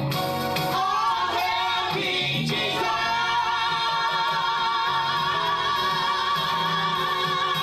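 Church worship music: a singer's voice over the band, holding one long note with vibrato from about three seconds in.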